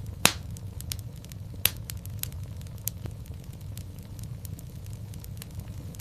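Wood fire crackling in a fireplace: a steady low rumble of flames under a constant scatter of small snaps and pops. Two louder pops come about a quarter second in and a little under two seconds in.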